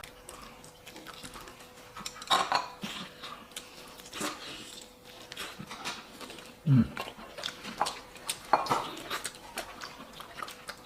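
Chopsticks and tableware clinking lightly against bowls and plates during a meal, scattered irregular clinks. About seven seconds in there is a brief, louder low sound that falls in pitch.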